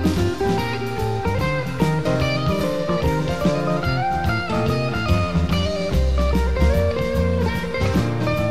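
Music: a band playing, with guitar notes over drums and a low bass line.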